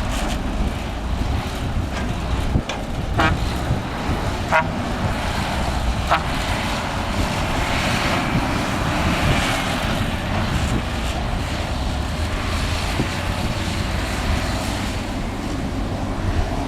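Excavator diesel engine running steadily under work, with a few short knocks about three, four and a half, and six seconds in.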